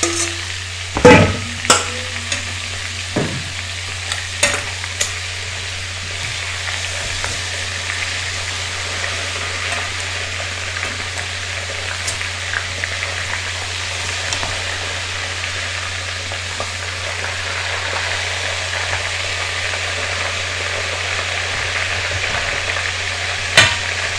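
Coated crab pieces frying in hot oil in a pot, a steady sizzle. Stainless steel bowl and tongs clank against the pot a few times in the first five seconds and once near the end, over a low steady hum.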